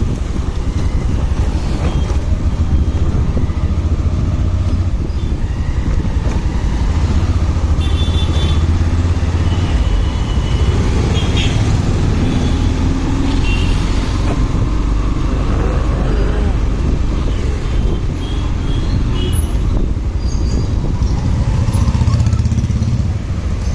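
Motorcycle running on the move in road traffic, with a heavy, steady wind rumble on the microphone. A few short high-pitched tones sound here and there.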